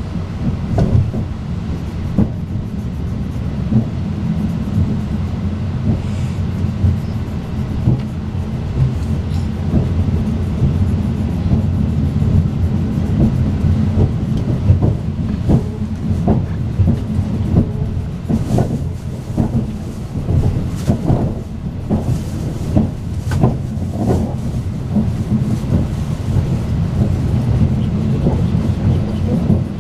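Strizh Talgo passenger train running, heard from inside the coach: a steady low rumble of wheels on rail, with frequent short knocks and clicks, more of them in the second half.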